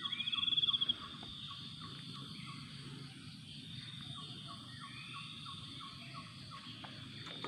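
Faint insect chorus: a fast, buzzy pulsed trill stops about a second in, while softer, regularly repeated chirps and occasional rising calls carry on over a low background hum.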